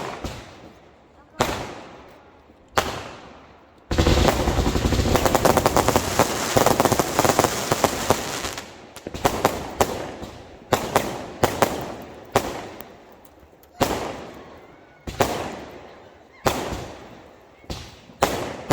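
Fireworks going off: a series of sharp bangs about a second or so apart, each trailing off in an echo. From about four seconds in to eight seconds in, a dense barrage of rapid crackling pops fills the gap.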